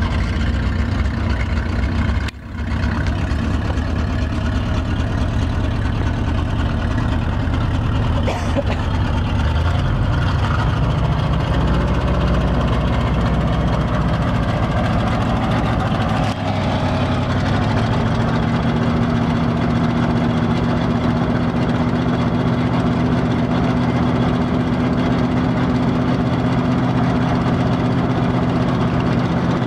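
International grain truck's engine running, briefly dipping about two seconds in. Its speed changes twice, around a third of the way in and again past the middle, then it holds steady.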